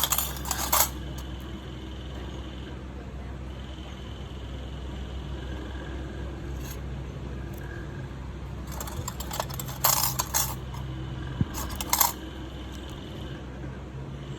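Small metal manicure tools clinking and scraping in several short bursts, the busiest cluster about ten seconds in, over a steady low hum.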